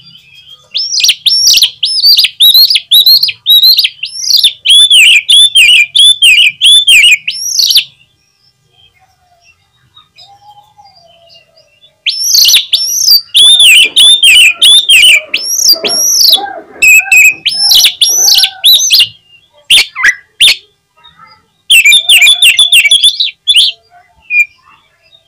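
Oriental magpie-robin (kacer) singing loud, fast strings of repeated rising-and-falling whistled notes, about two a second, in bursts of several seconds separated by pauses of a few seconds. It is a bait recording used to rouse a captive male's song and tail-spreading.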